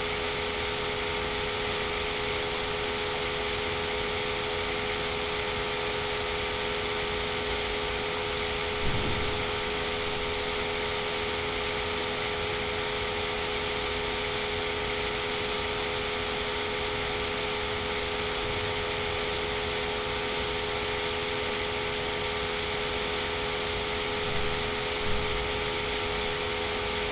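Steady background hum and hiss with a faint knock about nine seconds in and two more near the end.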